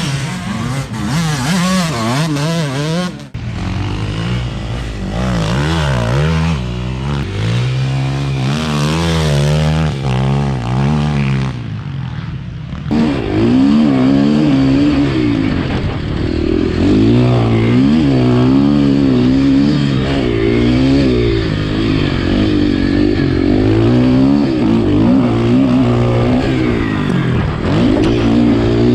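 Motocross dirt bike engines revving, their pitch rising and falling again and again through throttle and gear changes. The sound changes abruptly about 3 and 13 seconds in, and is louder after the second change.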